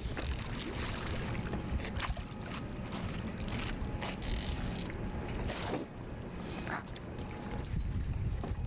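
Steady outdoor rumble of wind and water around a boat, strongest in the low end, with a few brief knocks or splashes.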